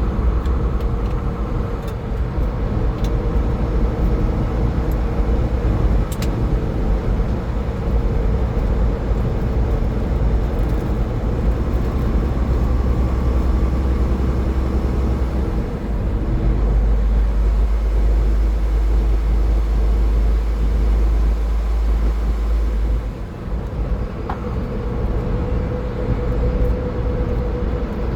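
Car driving at highway speed: a steady low rumble of tyres on the road with a faint engine hum, dipping briefly about 23 seconds in.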